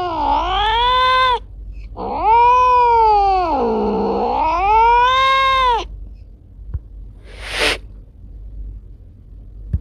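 Cat yowling: a drawn-out wavering call that ends about a second in, then a second long yowl that dips low in pitch and rises again. A short hiss follows about two seconds later.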